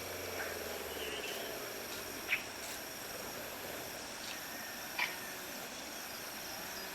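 Steady high insect trilling, with two brief sharp sounds, one about two seconds in and one about five seconds in.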